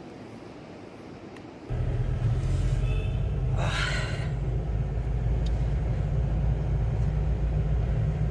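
Steady low rumble of riding in a moving vehicle, starting abruptly about two seconds in, with a brief hiss a couple of seconds later.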